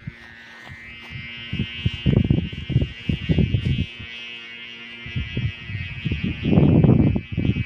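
A steady, high buzzing drone of several tones held together, with irregular low rushing noise beneath it that is loudest about six and a half seconds in.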